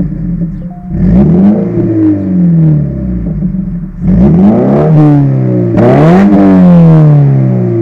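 Subaru BRZ's FA20 flat-four engine through a Corsa cat-back exhaust, revving up and falling back several times as the car is driven hard, with sharp climbs in revs about four and six seconds in.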